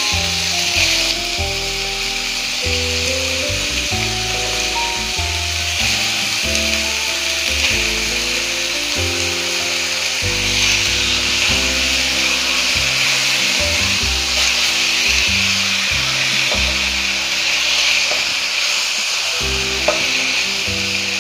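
Marinated chicken pieces, onions and garlic sizzling steadily in hot oil as the chicken goes into the pan, with background music playing under it.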